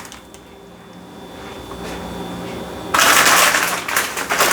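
Saltine crackers being handled: a loud, dense crinkling and crackling starts suddenly about three seconds in, after a quiet stretch.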